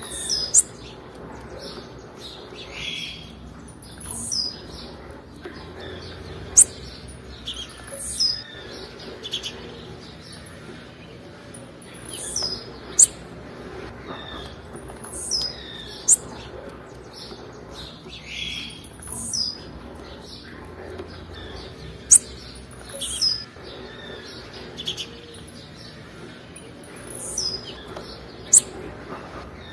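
Blue-black grassquit (tiziu) calling: short, sharp, very high-pitched chips repeated every second or two, a few of them much louder than the rest.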